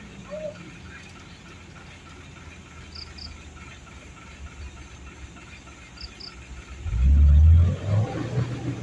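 Hino truck's diesel engine rumbling low under load, then revving loudly about seven seconds in before easing back. A chirping insect calls in short pairs every few seconds.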